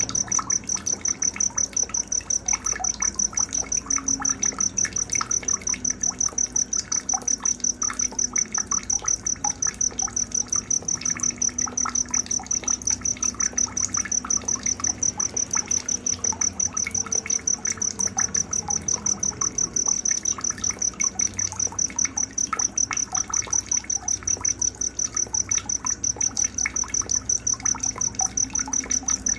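Night nature ambience: a cricket chirping steadily at about four high-pitched pulses a second, over scattered small bird chirps.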